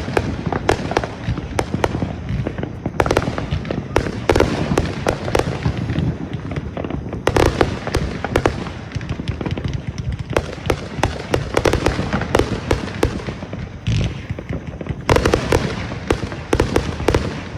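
Consumer fireworks going off in a rapid, irregular barrage: many sharp cracks and bangs, some in dense clusters, over a continuous low rumble of launches and bursts.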